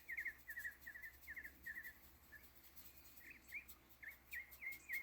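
Songbirds chirping faintly in short runs of quick, repeated notes, a new run every half second or so.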